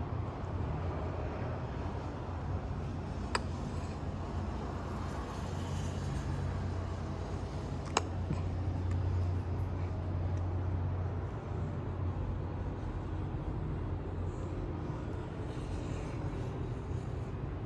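54-inch NSB X-treme ceiling fan running, a steady low rumble of moving air. Two sharp clicks sound, about three seconds and about eight seconds in.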